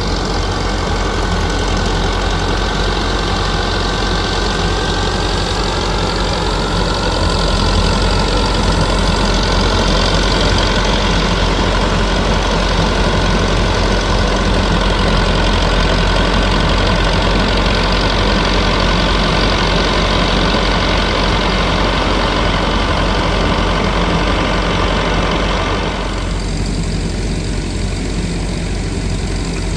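An engine running steadily and loudly, with a strong low hum; about four seconds before the end its higher-pitched noise drops away while the low running carries on.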